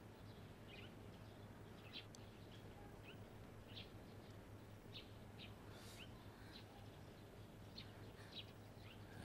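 Near silence with faint, scattered bird chirps, short high calls every half second to a second, over a faint steady low hum.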